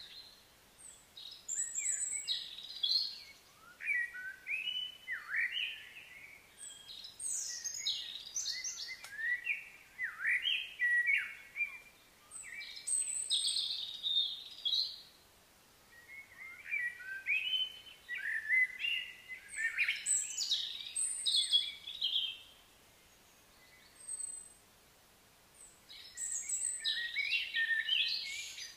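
A songbird singing a long, varied song of quick chirps and whistles, in phrases of two to three seconds separated by short pauses.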